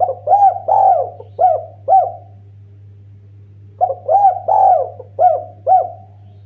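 Spotted dove (tekukur) cooing: two phrases of about five hooting notes each, a couple of seconds apart. A steady low hum runs underneath.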